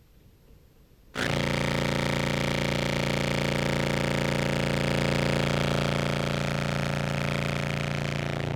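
Contrabass clarinet holding one long distorted fuzz note through heavy, squashy compression. The note starts about a second in with a hard attack and stops abruptly near the end.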